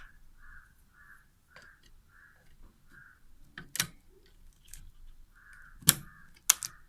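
Sharp clicks as a RAM stick is pressed into its motherboard slot and the retention clips snap shut, the loudest two close together near the end. A crow caws over and over in the background.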